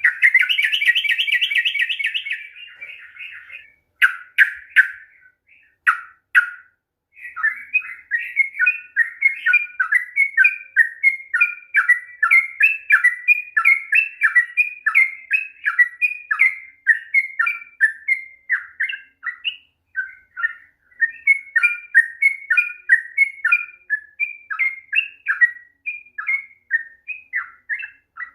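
Yellow-vented bulbul singing a long, rapid song. It opens with a fast trill, gives a few separate notes, then runs into an unbroken string of quick chirping phrases.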